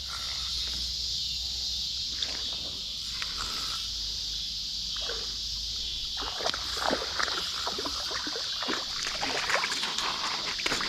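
Creek water sloshing and splashing, getting busier from about six seconds in, over a steady high buzz of insects.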